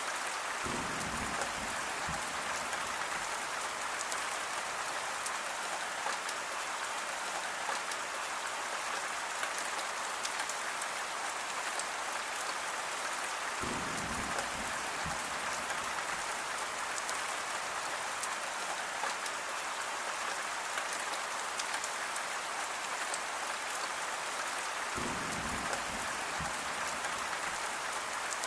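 Steady rain falling, an even dense hiss full of fine drop ticks. A brief deeper sound comes in three times, about twelve seconds apart.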